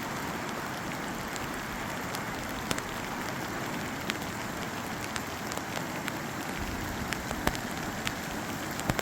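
Rain falling hard: a steady dense hiss with scattered sharp clicks of single drops hitting close by.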